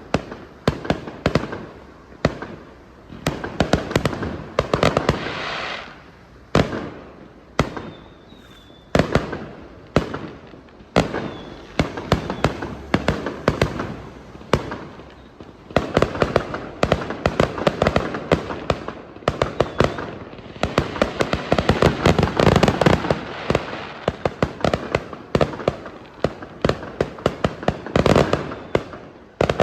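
Many fireworks going off at once: dense volleys of sharp cracks and bangs coming in clusters, heaviest a little past the middle, with a faint short whistle about eight seconds in.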